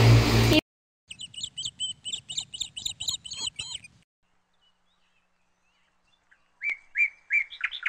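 Small bird chirping: a rapid run of high, repeated chirps, about four a second for three seconds. After a pause comes a shorter run of about six lower chirps near the end. At the very start a louder sound cuts off abruptly, leaving dead silence between the calls.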